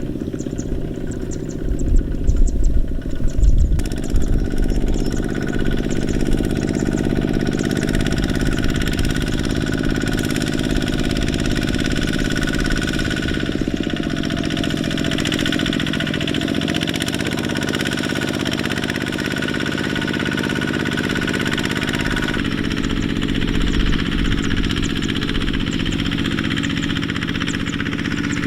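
Kubota mini tractor's diesel engine running steadily under load, with low thumps in the first few seconds. Its pitch sags and recovers in the middle, and the engine note changes abruptly about four seconds in and again about two-thirds through.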